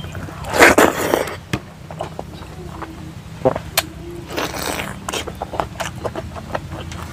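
Close-up eating sounds of rice and pork taken by hand: wet chewing and lip-smacking clicks, with two louder stretches of rustling noise, about half a second in and around four and a half seconds. A steady low hum runs underneath.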